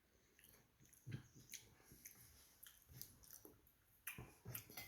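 Faint chewing: a person eating a bite of stuffed pasta, with soft irregular mouth clicks and smacks.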